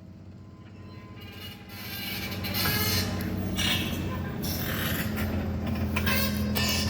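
Heavy machinery running with a steady low engine hum that grows louder over the first few seconds. Over it come repeated short bursts of hissing and creaking.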